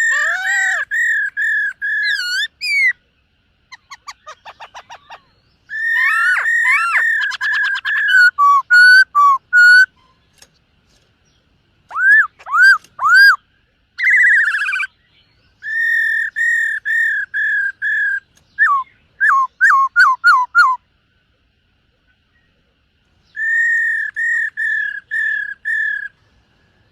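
Black-throated laughingthrush singing: loud phrases of rapidly repeated clear whistled notes, some rising or falling in pitch, broken by short pauses and one longer silence about two-thirds of the way through.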